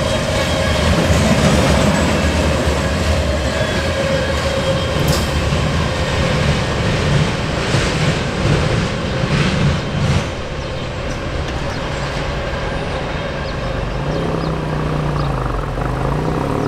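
Freight cars loaded with steel coils rolling past on jointed track: a steady rumble with wheel clatter and clacks, plus a thin wheel squeal early on, dying down about ten seconds in. Near the end a car engine approaches.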